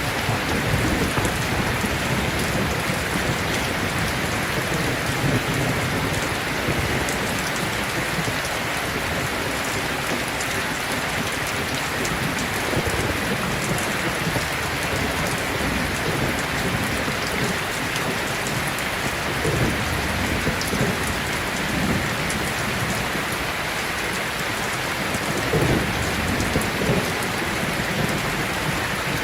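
Heavy rain pouring steadily, with low rumbles of thunder swelling now and then.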